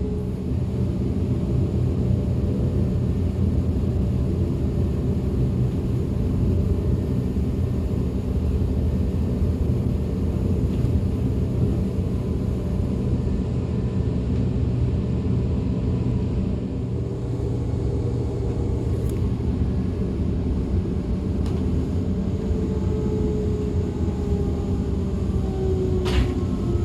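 DB Class 425 electric multiple unit running, heard from on board: a steady rumble of wheels on rail. In the last few seconds a whine from the traction drive falls steadily in pitch, and a single sharp click comes near the end.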